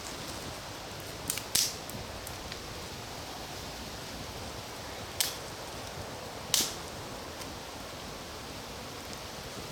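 Wood campfire crackling: four sharp pops, two close together early, then two more a few seconds apart, over a steady low hiss.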